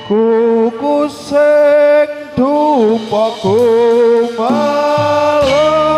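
Music: a solo singer holding and bending long, ornamented notes of a Javanese song, with short breaks between phrases. Low sustained accompaniment tones come in near the end.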